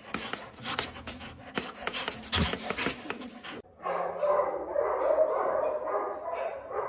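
About three and a half seconds of crackling, clattering noise, then a dog gives one long, drawn-out, wavering whine lasting about three seconds, the loudest sound here.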